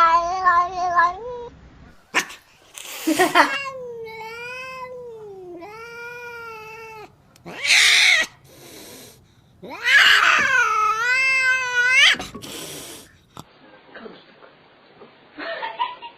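An angry domestic cat yowling in long, wavering howls, three of them, with short sharp hisses between.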